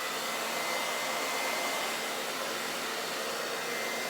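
Hair dryer blowing steadily, an even rush of air with a thin steady whine, used to push fluid acrylic paint across a canvas.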